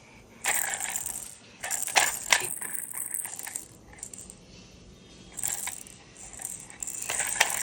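Small hard objects rattling and clinking in several separate bursts, with a couple of sharp clicks about two seconds in.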